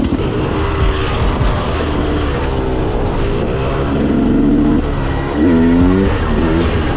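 Supermoto motorcycle engine under way, its note rising and falling as the rider accelerates and changes gear. The revs climb sharply and the engine gets louder about five and a half seconds in.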